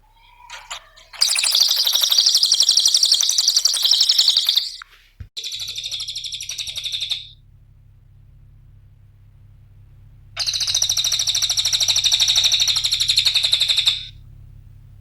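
Cililin songbird singing rapid, ticking chatter-trills in three bouts: about three seconds long, then a shorter one, then another of about three and a half seconds near the end. Under them is a faint steady low hum.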